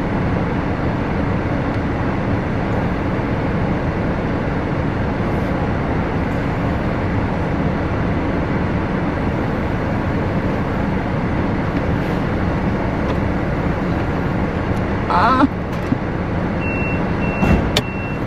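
Steady rushing vehicle noise. Near the end there is a sharp click and a run of short, high electronic beeps.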